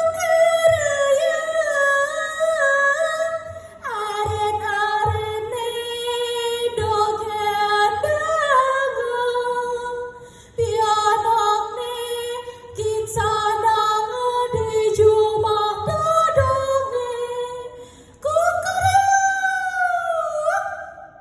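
A woman's voice singing unaccompanied, holding long notes with wavering pitch in several phrases, with short breaths between them about 4, 10 and 18 seconds in.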